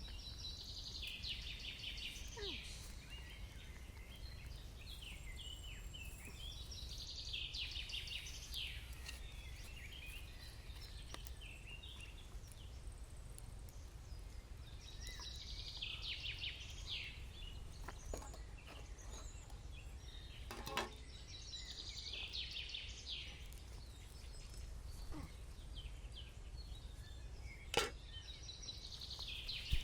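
A bird singing a phrase of quick, high chirping notes, repeated about every six to seven seconds over a steady low background rumble. There are two sharp clicks: one a little after twenty seconds in, and a louder one near the end.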